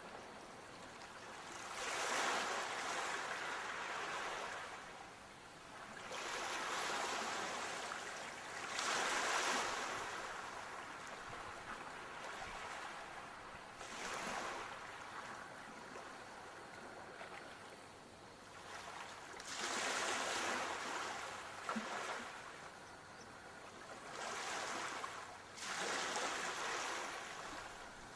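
Sea waves washing onto a shore, the hiss of surf swelling and fading every few seconds, about six surges in all.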